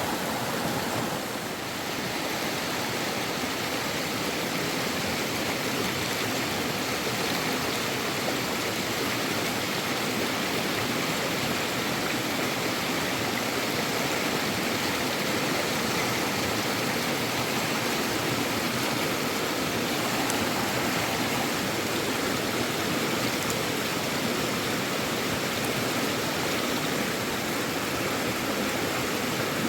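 Fast-flowing river water rushing steadily, a constant unbroken wash of noise.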